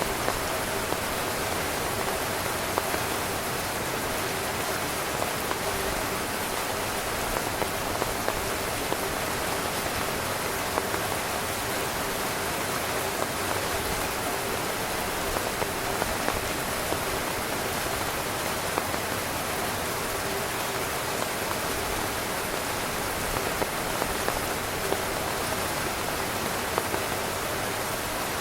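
Steady heavy rain pattering on a tent's fabric, an even hiss with many small drop taps scattered through it.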